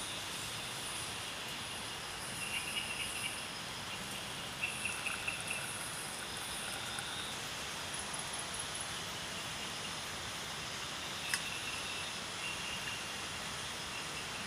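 Crickets and other insects chirping over a steady hiss: a high pulsing trill throughout, with short bursts of rapid chirps about three seconds and five seconds in. One sharp click about eleven seconds in.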